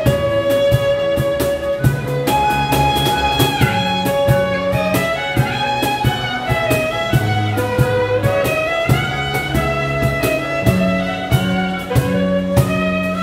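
Korean fusion instrumental music with a steady beat: a bowed haegeum plays a melody with sliding notes over plucked gayageum and bass.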